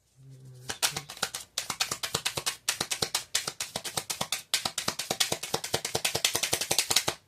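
A tarot deck being shuffled: a fast, dense run of card clicks starting about a second in, with two brief breaks early on.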